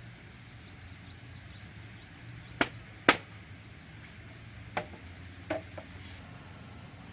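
Four sharp knocks, like tool strikes, spaced irregularly, the loudest about three seconds in, with faint high chirps in between.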